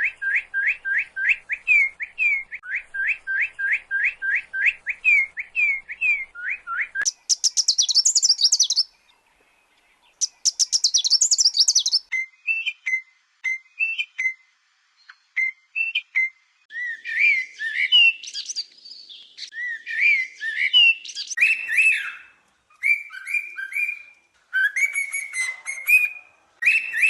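Bird calls and songs that change in character: first a quick run of rising whistled notes, about three a second, then two short bursts of high buzzy trill, then a series of varied whistled phrases.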